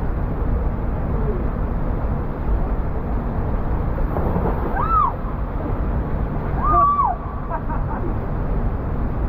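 Waterfall rushing steadily, with a person's voice calling out briefly twice, about five and about seven seconds in.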